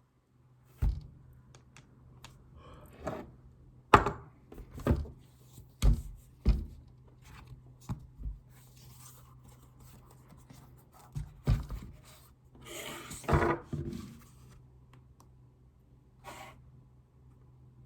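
Irregular knocks, taps and brief scraping or rustling from objects being handled, a dozen or so strikes with the sharpest about four seconds in, over a steady low hum.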